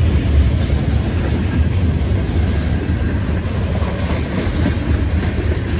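Freight cars of a long CSX train rolling past, a steady loud rumble of wheels on the rails.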